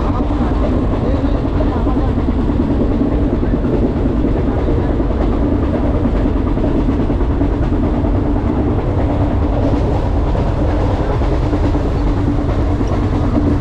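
Mumbai electric suburban local train running, a steady rumble and rattle with a constant hum under it.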